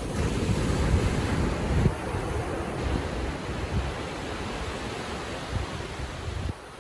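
Ocean surf washing onto the beach in a steady hiss, with a low rumble of wind on the microphone. It is loudest in the first couple of seconds and eases off near the end.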